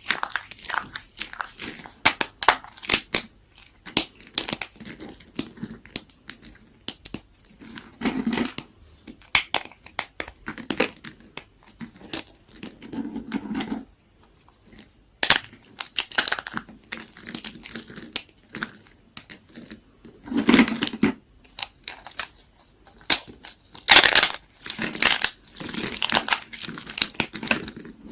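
A blade cutting very dry leftover soap: dense, irregular crackling and crunching as the brittle soap splits and its shavings crumble. A few heavier crunches come about 8, 13 and 20 seconds in.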